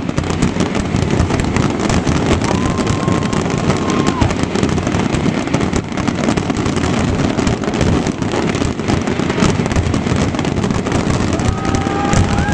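Fireworks finale going off in a dense, continuous barrage of bangs and crackles over a low rumble, with a held whistle about two and a half seconds in.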